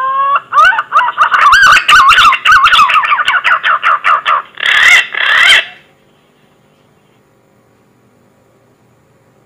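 Green pigeon (punai) song played as a hunting lure call: a rising whistle, then a run of quick, wavering whistled notes, ending in two louder, harsher notes. The song stops about six seconds in.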